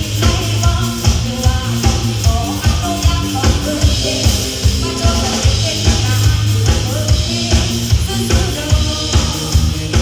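Live band playing with a drum kit and bass on a steady beat, melodic lines on top.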